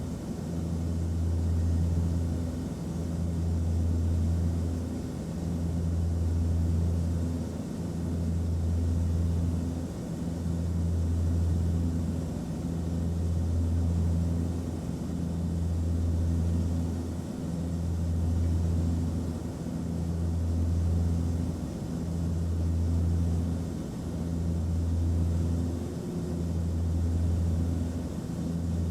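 Airliner cabin noise: a deep, steady engine drone with a soft hiss of airflow, swelling and easing evenly about every two and a half seconds.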